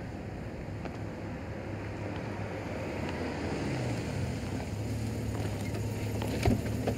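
Car engine running at low speed with a steady low hum, growing slowly louder as it draws near. A single sharp click comes near the end.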